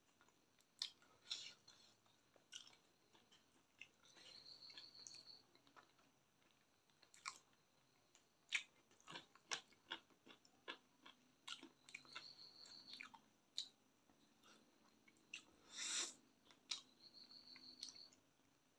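Close-up mouth sounds of eating chicken and rice by hand: irregular wet chewing with sharp mouth clicks and lip smacks, and a longer, louder smack near the end.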